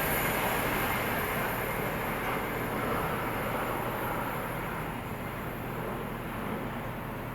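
Train passing through the station and receding, its rumble fading steadily.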